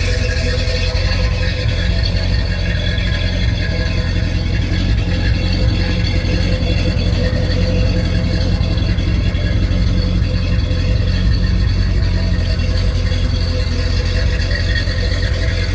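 1970 Dodge D100 pickup engine idling steadily through its new exhaust, a deep, even rumble.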